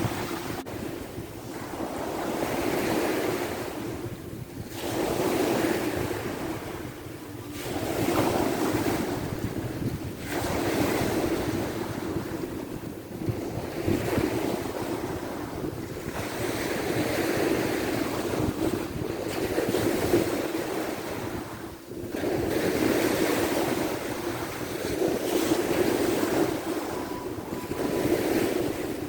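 Sea waves washing onto the shore, swelling and fading every two to three seconds, with wind buffeting the microphone.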